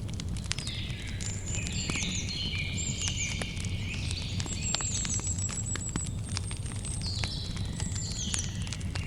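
Campfire crackling with frequent sharp pops and snaps over a steady low rumble, while small birds chirp and trill repeatedly in the background.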